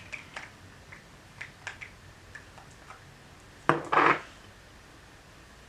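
Small clicks and light taps of makeup being handled and primer dabbed on, then one brief loud noise a little before four seconds in.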